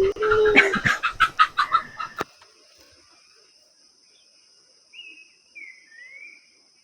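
A chicken calling: a drawn-out note that breaks into a quick run of clucks and stops about two seconds in. A few faint small-bird chirps follow near the end.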